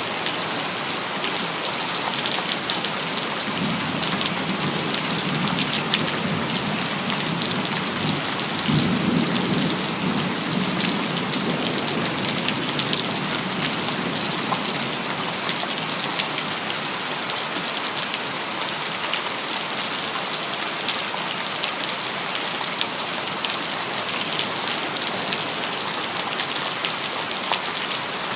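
Steady heavy rain hissing, with individual drops ticking on hard surfaces. A low rumble of distant thunder swells in about four seconds in and fades out by about eleven seconds.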